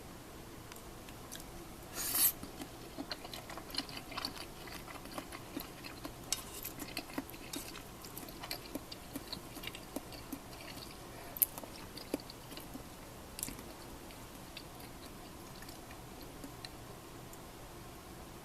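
Eating at close range: chewing with scattered small clicks and taps of tableware, and a louder brief noise about two seconds in, over a low steady hiss.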